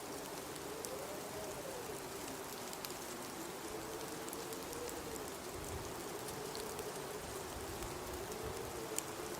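Blizzard wind howling in a slowly wavering tone that rises and falls, over a steady hiss of wind and blowing snow, with faint scattered ticks.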